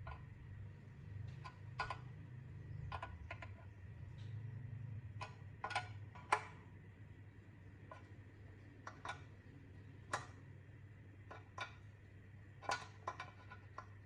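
Scattered light clicks and taps from hand work on small parts, some in quick pairs, over a faint low hum.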